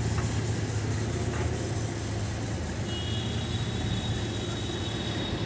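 Mitsubishi Pajero V6 engine idling steadily with a low, even hum.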